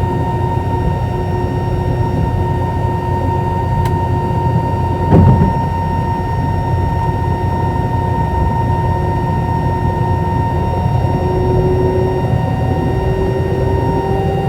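Airbus A320 cabin noise: a steady low rumble with the engines' whining tones, and one short thump about five seconds in. Near the end some of the engine tones begin to rise slowly.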